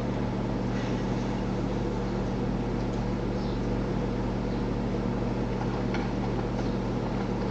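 Steady low electrical or machine hum with a few faint clicks.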